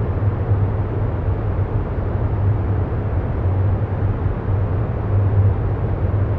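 Steady low rumbling noise with a deep hum underneath, the continuous background sound bed of a guided meditation recording.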